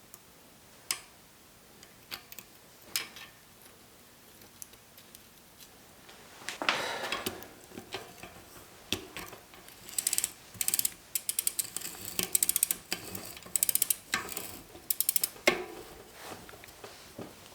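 Ratchet mechanism clicking in quick runs, with scattered knocks and clatter of parts being handled.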